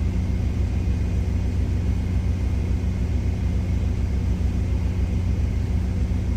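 A truck's engine idling: a steady, even low hum.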